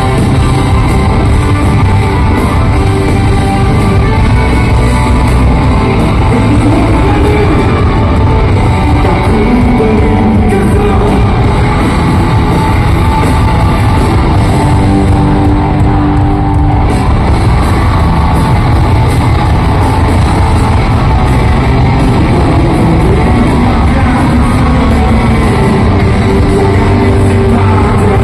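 Live rock band playing a song with electric guitar, drums and singing, loud and unbroken, as heard from within the audience, with some shouting from the crowd.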